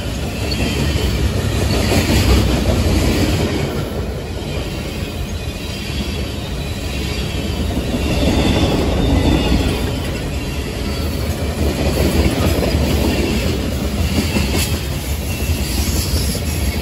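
Union Pacific freight train's tank cars and a boxcar rolling past close by at speed, steel wheels rumbling and clicking over the rail joints, with a faint high wheel squeal at times. The sound swells and eases as the cars go by.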